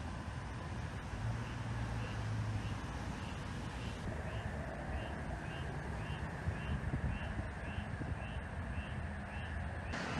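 A bird calling over and over, short chirps about twice a second, over a steady low rumble.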